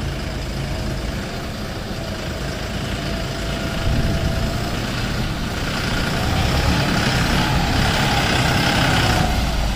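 Force Sanman 6000 tractor's three-cylinder diesel engine running. It grows louder about four seconds in and again a couple of seconds later.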